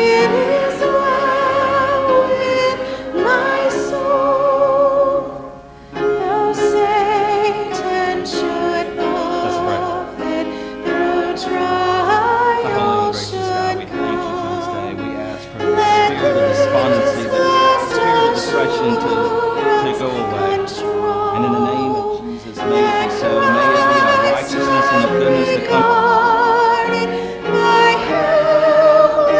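Church congregation singing a hymn in long held phrases, with brief pauses between lines.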